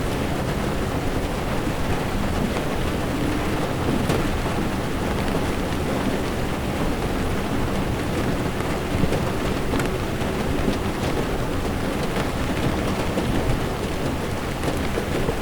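Heavy rain falling on a moving car's windshield and body, over a steady low rumble of tyres on the wet road, with scattered ticks of single drops.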